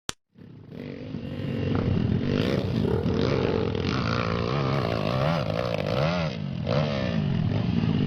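Trail motorcycle engine revving hard, its pitch rising and falling over and over as the throttle is worked, fading in over the first two seconds after a short click.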